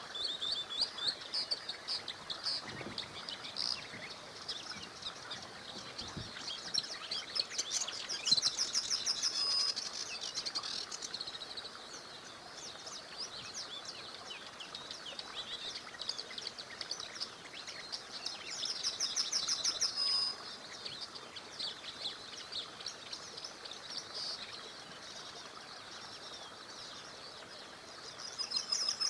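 Several songbirds singing and chirping together, with bursts of fast trills about eight seconds in and again around nineteen seconds. Beneath them is a faint steady rush of a small river.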